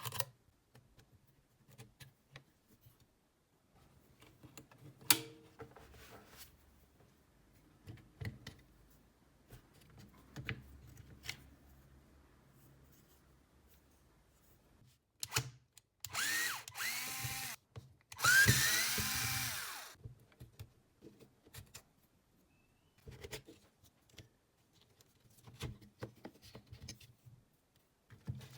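Hitachi 24V cordless drill's motor run in two short bursts of one to two seconds each, the pitch sliding as it speeds up and slows. Scattered clicks and knocks of the tool being handled come between the runs.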